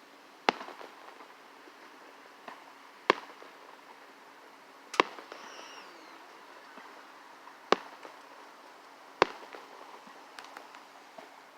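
Fireworks going off: five loud, sharp bangs a couple of seconds apart, each with a short trailing tail, and a few smaller pops in between.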